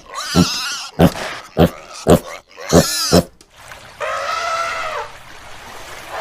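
Animal calls: a quick run of short grunts and squeals, about six in three seconds, then one longer drawn-out call about four seconds in.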